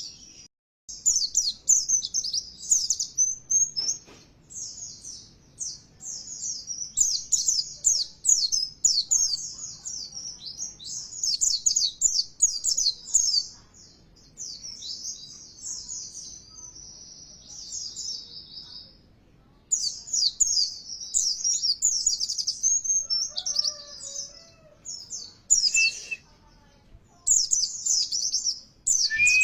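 White-eye (pleci) singing a fast, high twittering song in bursts with short pauses. It is a pancingan recording, a lure song played to rouse caged white-eyes into singing.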